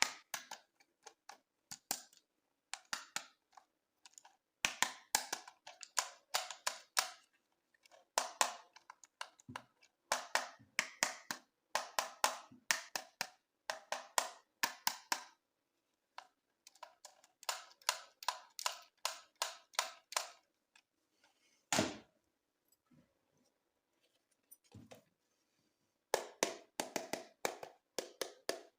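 Plastic toys and packaging being handled: runs of quick, sharp clicks and crackles in short clusters with brief pauses, and a single heavier knock a little past the middle.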